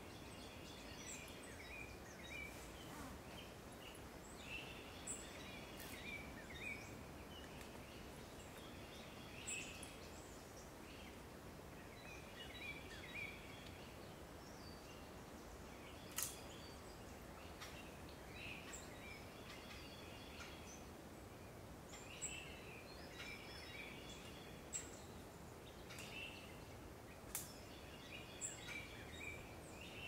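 Songbirds singing in a swamp forest: short song phrases repeat every two to three seconds over a faint steady background hiss, with a single sharp click about halfway through.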